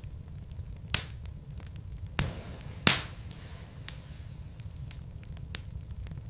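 Wood fire burning in a fireplace: a low steady rumble with scattered crackles and a few sharper pops from the logs, the loudest a little under three seconds in.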